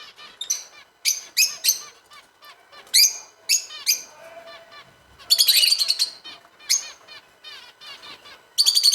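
A mixed aviary of finches, lovebirds and cockatiels calling: constant small chirping and twittering, broken by loud, harsh screeching calls in short groups, with the longest run about five seconds in. The keeper puts the racket down to the caged birds answering wild ring-necked parakeets calling nearby.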